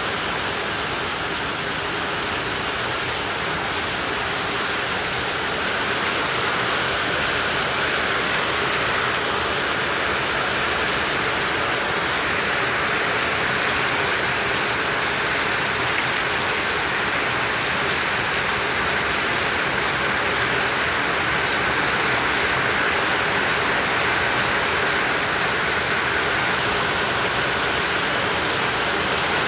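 Heavy tropical rain falling steadily, a dense even hiss of drops recorded on a smartphone, getting slightly louder about six seconds in.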